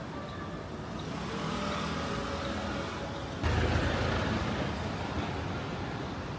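Street ambience with a steady traffic-like hum, switching abruptly about three and a half seconds in to a louder, deeper rumble.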